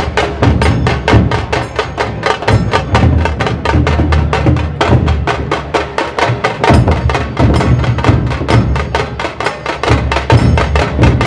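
Dhol-tasha ensemble drumming: a fast, dense stream of sharp, cracking tasha strokes over deep dhol beats, loud and unbroken.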